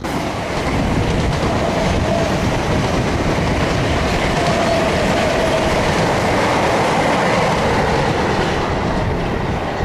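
South Western Railway Class 455 and Class 456 electric multiple units running past close by at speed: a loud, steady rush of wheels on rail, building up just after the start, with a faint steady whine in the first half and easing slightly near the end as the last carriages go by.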